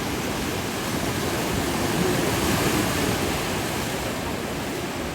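Rough ocean surf crashing, a wave breaking and the rush of water swelling louder about two seconds in before easing off.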